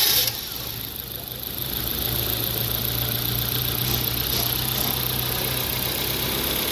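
Ford Fiesta petrol engine catching at the very start, then running at a steady idle that firms up about two seconds in. Its camshaft timing has just been reset after being found 30 degrees out, the fault behind its idle hiccups.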